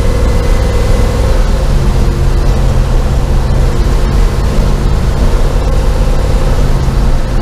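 LS V8 engine of a Chevy C10 pickup running while driving, loud and steady; about a second and a half in the note changes and settles onto a lower, steady tone.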